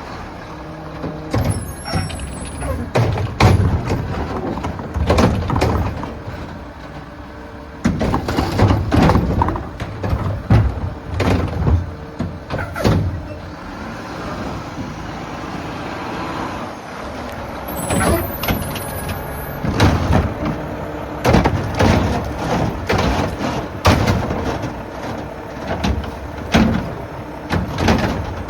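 Mack LR garbage truck with a McNeilus Meridian body and Curotto Can working a collection stop: the engine runs steadily under repeated bangs and clanks of trash and bins, with short air-brake hisses about two seconds in and again near the two-thirds mark.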